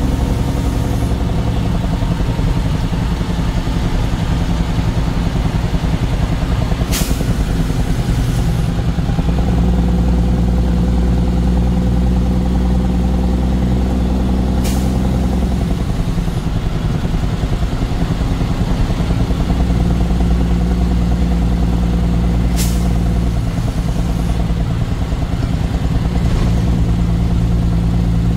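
Truck engine running steadily on the move, its pitch shifting a few times, with a sharp click about every eight seconds.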